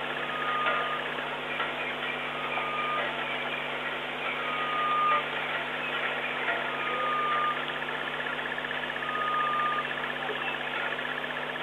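Game-drive vehicle engine idling with a steady low hum. Over it, a short clear whistle-like note repeats about every one and a half seconds, and a faint buzzing trill joins in the second half.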